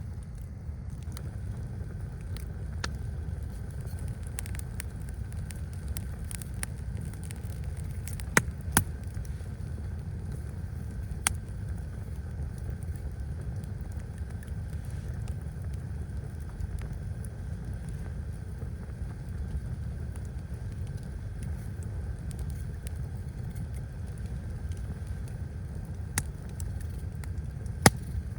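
Steady low rumble of storm wind, with a few isolated sharp snaps or pops.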